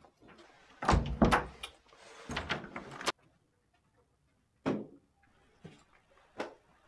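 A door being handled: two loud stretches of thudding and rattling, the second one cut off sharply. Three separate short thuds follow, about a second apart.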